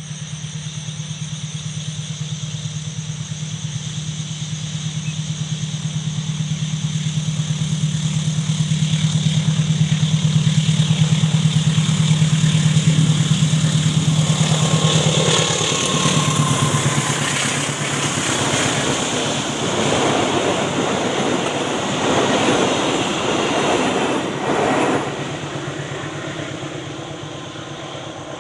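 A train passing: the locomotive's engine drone grows steadily louder as it approaches and drops slightly in pitch as it passes about halfway through, then the carriages rumble and clatter over the rails before fading near the end.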